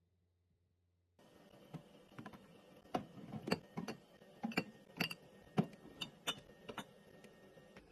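Containers and items being set down and arranged while restocking a fridge: about a dozen sharp clicks and clinks, some glassy, starting just over a second in after a moment of near silence.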